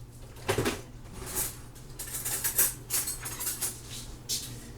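Cutlery clinking and scraping on a plate while pieces of grilled chicken are cut up: a string of irregular light clicks.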